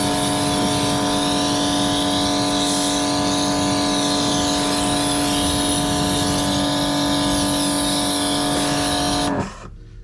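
Electric pressure washer running at a steady pitch, its motor hum under the hiss of the spray, until it shuts off suddenly near the end.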